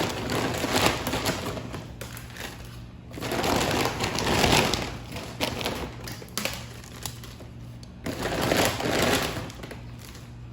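Dry dog food kibble rattling as it is poured out of a freshly cut-open bag, with the bag's rustle, in three bursts a few seconds apart.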